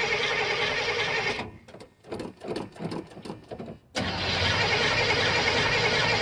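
1982 Chevrolet square-body pickup's engine heard at the exhaust on a cold start, choke on. About a second and a half in, the steady running breaks off into a few uneven, separate firing pulses, then the engine catches and runs steadily again from about four seconds in.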